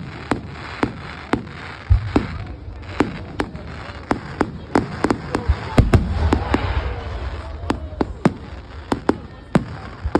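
Fireworks display: a rapid, continuous series of sharp bangs and cracks. Deeper booms come about two seconds in and about six seconds in, the second followed by a rumble lasting about two seconds.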